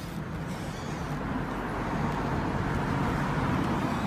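Road-traffic rumble, a motor vehicle's engine and tyres, slowly growing louder.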